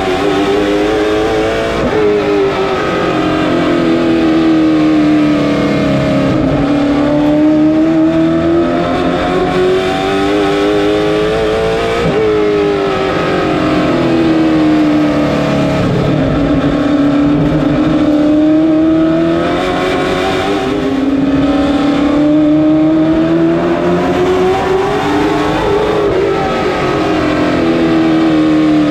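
Race car engine running hard on an oval lap after lap. The pitch climbs steadily as the car accelerates, then falls back as the driver lifts for the turns, in a slow cycle that repeats about every 12 to 14 seconds.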